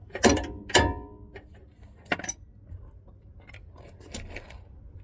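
Metal hand tools clinking and clanking against steel parts under the truck: two sharp ringing clanks about a quarter and three quarters of a second in, another around two seconds, then lighter clicks and taps.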